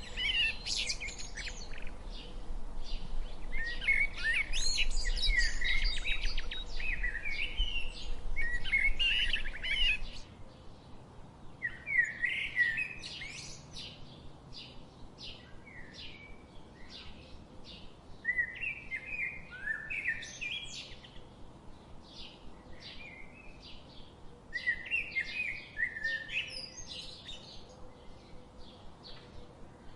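Small birds singing and chirping with quick, rapid twitters and trills. They are loud and dense for the first third with a low rumble beneath, then softer, sparser chirping after an abrupt change.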